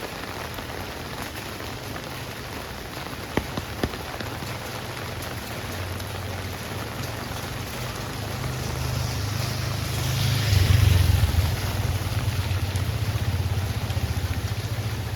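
Heavy rain falling steadily on a street. A motor vehicle comes up and passes, loudest about two-thirds of the way through, with a hiss of tyres on the wet road, and its low engine rumble runs on to the end. Two sharp clicks sound early on.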